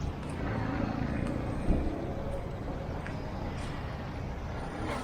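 Street traffic ambience: a steady rumble of passing vehicles, with a sharp thump about a second and a half in.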